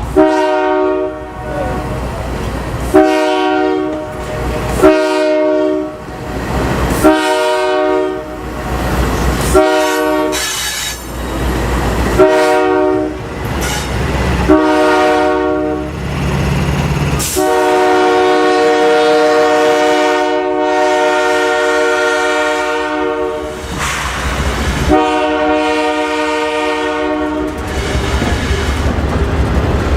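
Diesel locomotive air horn sounding a chord in repeated short blasts about every two seconds, then one long blast of about six seconds and a shorter one, as the train departs. A low rumble of the train runs between the blasts.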